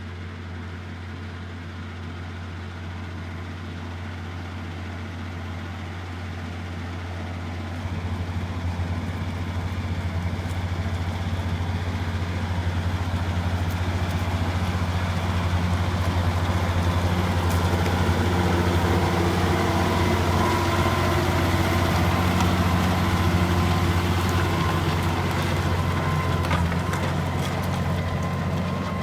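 John Deere 6140R tractor's six-cylinder diesel engine running steadily. It gets louder about eight seconds in and keeps building for roughly ten more seconds, then holds.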